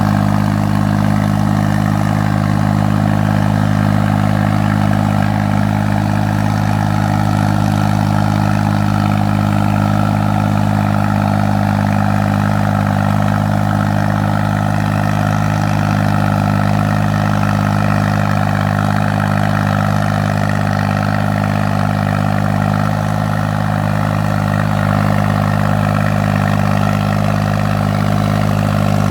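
New Holland 6500 tractor's diesel engine running steadily at constant speed, a loud even drone with only a slight dip about three quarters of the way through.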